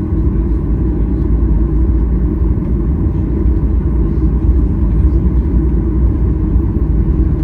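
Steady, loud, low rumble inside the passenger cabin of a Boeing 737-800: engine and airframe noise with no sudden events.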